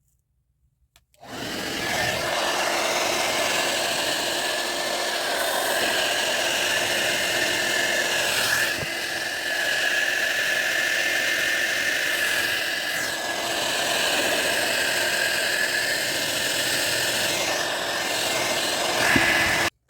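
John Frieda hair dryer switched on about a second in, blowing steadily with a whine over the rush of air, then switched off abruptly just before the end.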